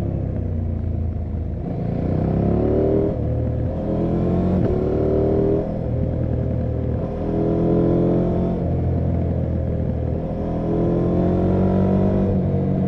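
KTM 790 Adventure R's parallel-twin engine under way, accelerating through the gears: the engine note rises, drops back at each upshift and rises again, several times over.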